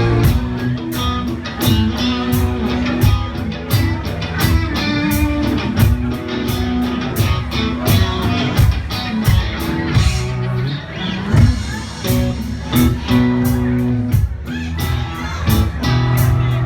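Country-rock band playing an instrumental passage: guitar over bass and a steady drum beat.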